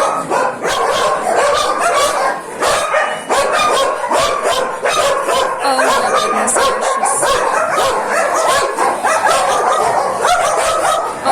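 A large pack of shelter dogs barking and yelping all at once, a loud, continuous, overlapping din with no pauses.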